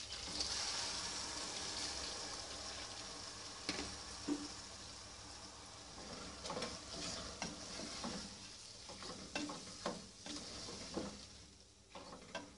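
Urad daal tipped into hot oil and masala in a pressure cooker pot, setting off a loud sizzle that slowly dies down. A wooden spoon then stirs the daal, scraping and knocking irregularly against the pot.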